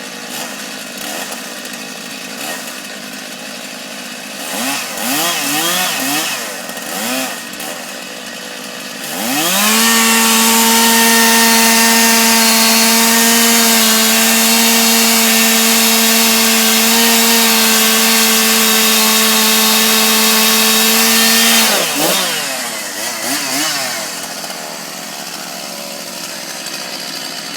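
Gasoline chainsaw idling with a few short blips of the throttle, then revved up to full throttle about nine seconds in and held there at a steady pitch for around twelve seconds, before dropping back to idle with a few more short revs.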